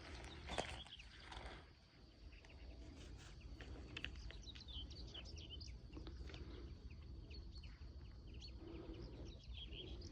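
Birds chirping, with many short high calls in quick succession, over a steady low rumble. A brief rustle comes about half a second in.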